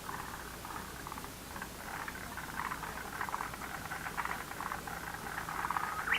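Chorus of many frogs calling together in a pond: overlapping trains of rapid pulsed croaks that swell somewhat after about two seconds.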